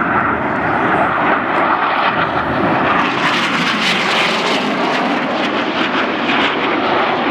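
Red Arrows' BAE Hawk jets flying a display pass, their jet noise loud and steady and growing brighter and harsher about three seconds in.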